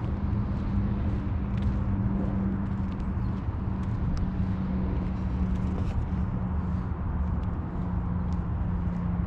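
Steady low outdoor rumble with a constant hum and scattered faint ticks, picked up while walking with a handheld camera.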